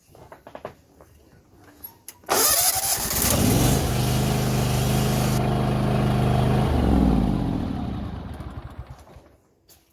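John Deere garden tractor's small engine cranked by its starter about two seconds in, catching within a second or so and running steadily, then shut off and winding down to a stop near the end. It cranks and starts now that the corroded battery terminal and cable are cleaned and tightened, curing the bad connection that had left it only clicking.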